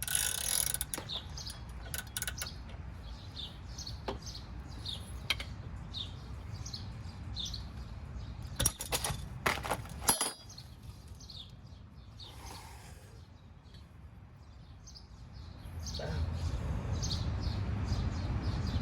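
Small birds chirping repeatedly over a steady low rumble, with a few sharp clicks or knocks about nine to ten seconds in.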